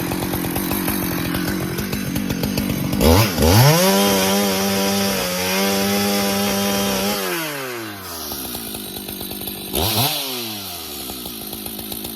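Husqvarna two-stroke chainsaw idling, then revved up about three seconds in and held at full throttle for about four seconds before dropping back to idle. A short throttle blip comes near the end.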